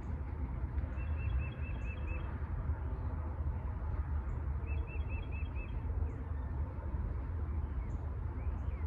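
A small bird calling in two short runs of about five quick repeated chirps, about a second in and again about five seconds in, over a steady low rumble.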